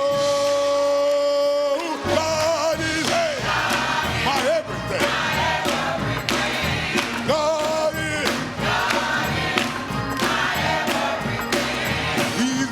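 Gospel choir singing with instrumental accompaniment: a long held note for about the first two seconds, then sung lines that bend up and down in pitch.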